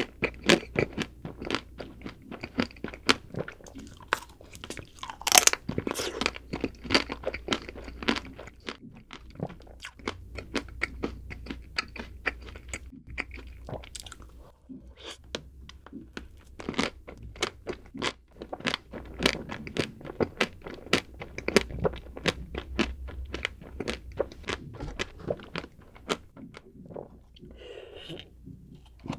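Close-miked eating of a chocolate-coated Magnum ice cream bar: the thin chocolate shell cracking and crunching under the teeth, mixed with wet chewing, many crisp crunches a second. Near the end the crunching thins out into softer gulping as chocolate milk is drunk from a carton.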